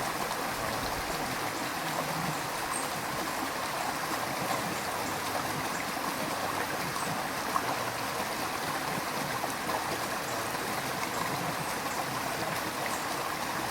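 A river's rushing water flowing steadily, with faint small splashes and gurgles in it.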